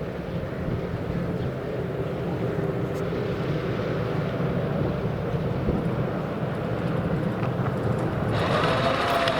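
A train running past, its rumble slowly growing louder, with the locomotive's horn starting to sound a steady note near the end, as a driver's greeting to the trainspotter.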